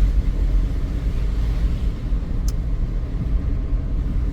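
Vehicle engine drone and road rumble heard from inside the cab while driving, steady and low, with one faint click about two and a half seconds in.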